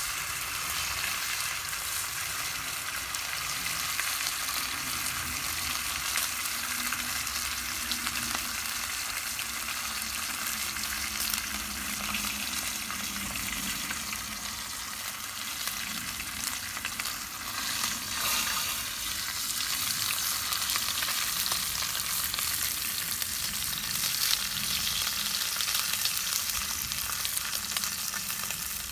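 Wood campfire burning with a steady crackle and hiss, many small pops throughout.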